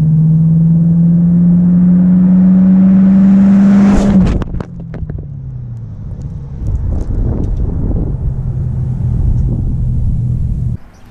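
Car engine held at steadily rising revs for about four seconds, then dropping back and running at a lower steady speed before cutting off suddenly near the end.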